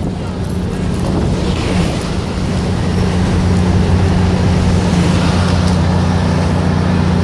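MARC commuter train pulling out of the station, its coaches rolling past with a steady low hum and rumble that builds over the first few seconds and then holds.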